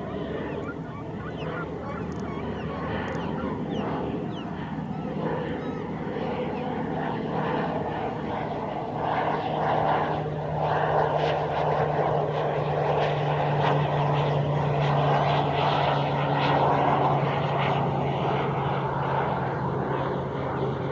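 A steady engine drone, like a propeller aircraft passing, grows louder after about ten seconds and eases off slightly near the end.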